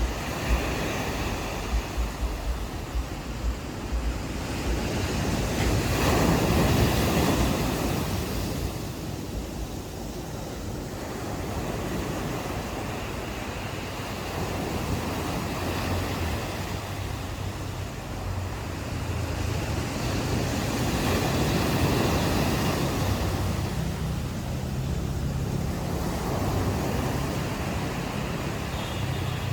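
Ocean waves washing onto a shore, the surf swelling and easing, loudest about six seconds in and again past twenty seconds. Low wind rumble on the microphone, strongest near the start.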